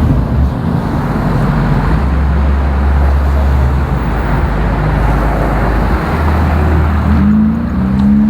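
Car engine running with steady road noise. About seven seconds in, an engine note rises and then holds steady, as a vehicle picks up speed.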